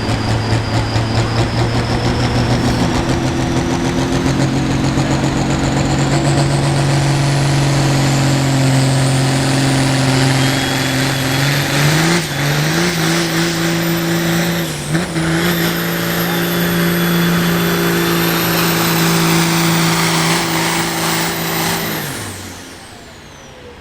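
Turbocharged diesel engine of a hot farm pulling tractor running flat out under load, with a high turbo whistle that climbs steadily. The engine pitch steps up about halfway through and dips briefly a few seconds later. Near the end the engine is throttled back and the turbo whine winds down.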